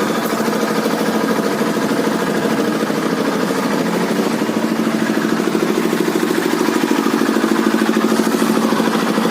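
Suzuki Swift petrol engine idling steadily after an engine flush, with a fast even pulsing. Its tone shifts slightly about four seconds in.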